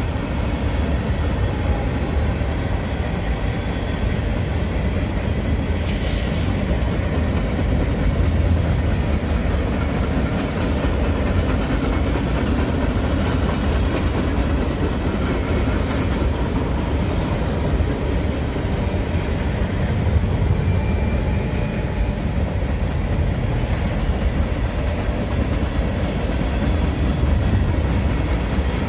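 Mixed freight cars of a Union Pacific manifest train rolling past: a steady, low rolling noise of steel wheels on the rails.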